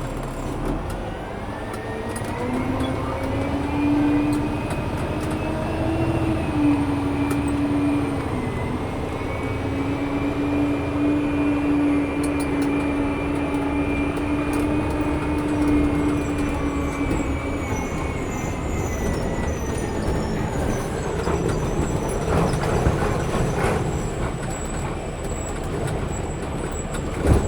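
Front-loader garbage truck's diesel engine pulling away and running steadily under load, heard from inside the cab, its pitch rising in the first couple of seconds and then holding. Near the end the engine note drops away and the truck body clatters and rattles.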